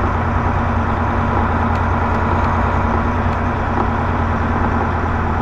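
Semi truck's diesel engine running steadily: an even, low drone with no change in pitch.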